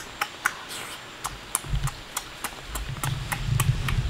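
Person eating cooked snails: low, muffled chewing and mouth sounds a little over a second in and again near the end. Under them, a steady run of sharp clicks about four a second.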